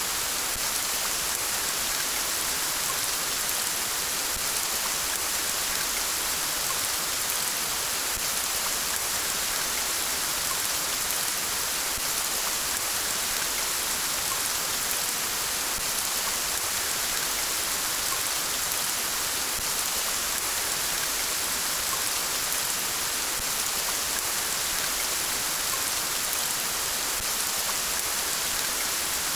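Steady rain falling, with many fine drops pattering on surfaces.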